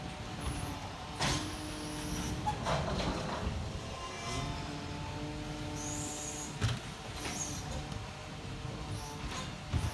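Garbage truck running with a steady mechanical whine that comes in twice, typical of the truck's hydraulics working. It is broken by sharp clunks, about a second in and again past the middle.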